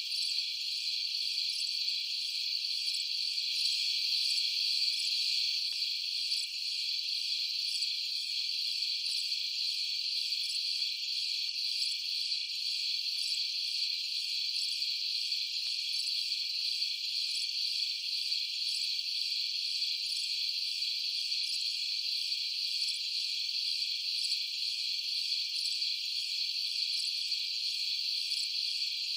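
A dense, steady chorus of crickets chirping at night, a continuous high-pitched trilling with nothing lower underneath.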